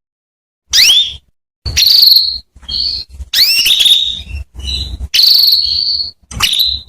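Female canary calling: about seven short phrases of quick upward-sliding high chirps and buzzy trills with brief silences between them. These are the calls used to prompt male canaries to sing.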